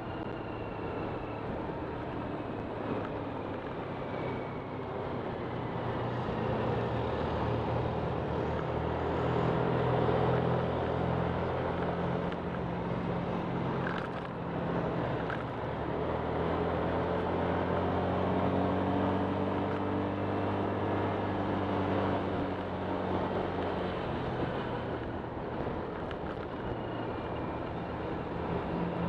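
Honda Click 125 scooter's single-cylinder engine running while riding, its pitch rising and falling with the throttle over a steady rush of noise.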